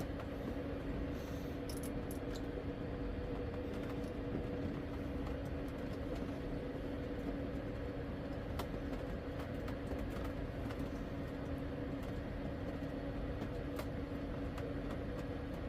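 A small motor running steadily with an even whir and hum that does not change, with a few faint clicks over it.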